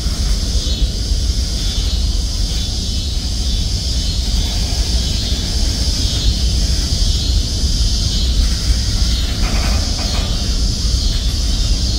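Covered hopper cars of a CSX freight train rolling past: a steady low rumble of steel wheels on the rails, with a constant high hiss over it.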